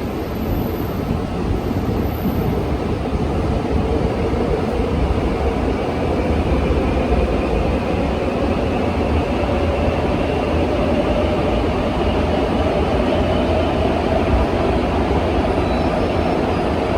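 Seoul Metro Line 3 train with GEC chopper control running on the rails, a steady rumble under a motor whine that rises slowly in pitch as the train picks up speed.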